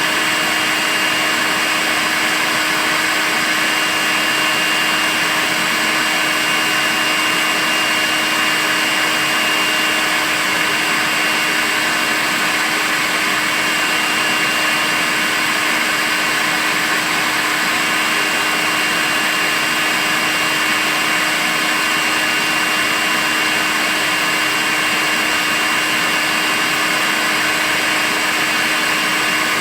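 Makita cordless vacuum cleaner running steadily at constant speed: a continuous motor whine with a high tone over an even rush of air.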